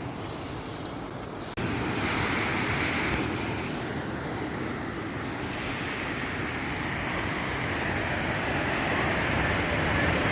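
Steady rushing of ocean surf and wind, with no clear breaks. It gets suddenly louder about a second and a half in.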